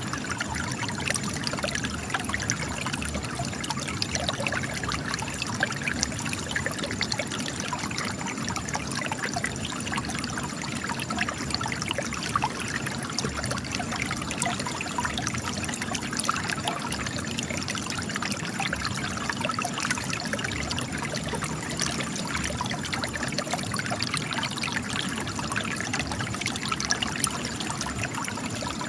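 Spring water trickling and gushing from cracks in rock, a steady splashing run of water.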